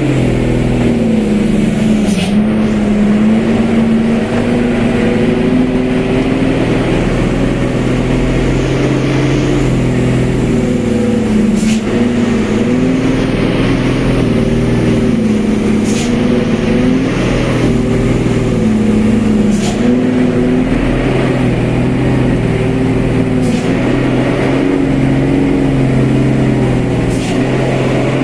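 Truck engine running under steady load, its pitch wavering up and down as the revs shift, with brief high-pitched ticks every few seconds.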